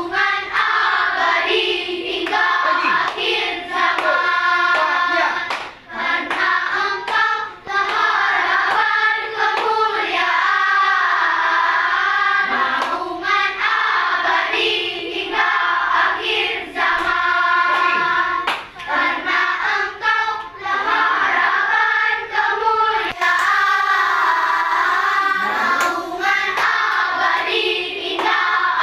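Children's choir singing together, the voices holding and moving between notes with short breaks between phrases.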